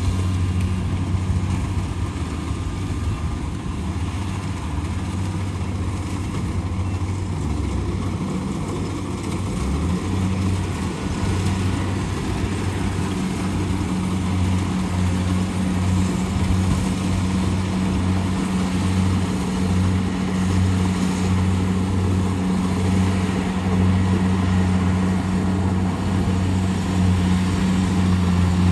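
Kubota DC70 Pro combine harvester running steadily, a continuous low engine drone over machinery noise; the lowest tone wavers in and out from about ten seconds in.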